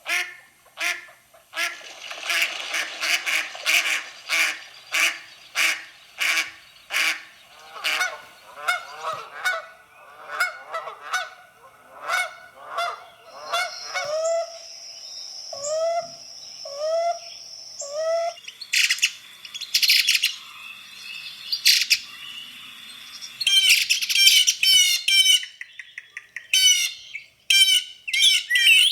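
Bird calls from several kinds of birds in turn. First comes a run of repeated calls about twice a second. Then short rising notes about once a second over a thin, steady high whistle, and quick high chirps near the end.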